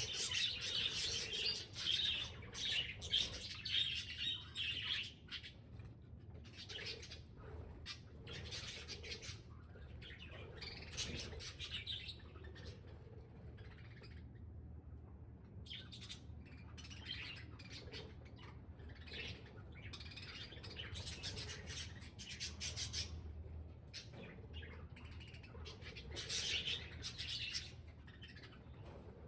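Budgerigars chattering and chirping in irregular bursts, busiest in the first few seconds, then on and off, over a faint low hum.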